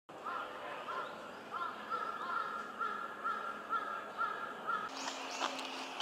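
A bird calling a run of short, clear notes, about two a second, which stops about five seconds in.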